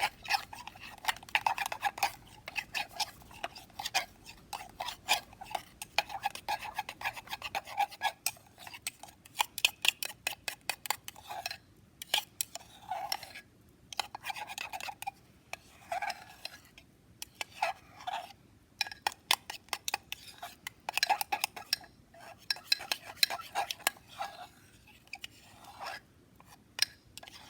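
A knife stirring and scraping a thick flour-and-milk batter in a mug, with quick, irregular clinks and scrapes against the mug's sides and a few short pauses.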